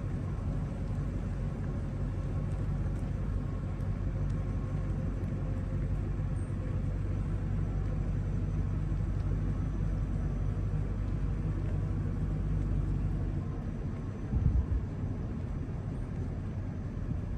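A motor running steadily with a low hum, easing off about thirteen seconds in, followed by a few short low thumps near the end.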